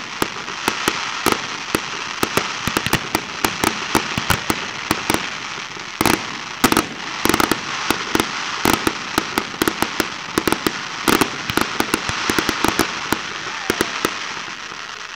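Fireworks going off: rapid crackling of many small sharp pops over a continuous hiss, with several louder bangs. It dies away just before the end.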